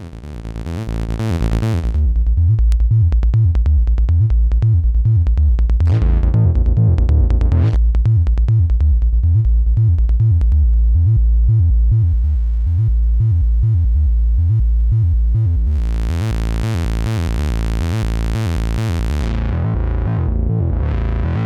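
Analog synthesizer music: a repeating, pulsing bass sequence. A filter sweep rises and falls about six seconds in, and a bright hissing wash of noise layers over it for a few seconds near the end.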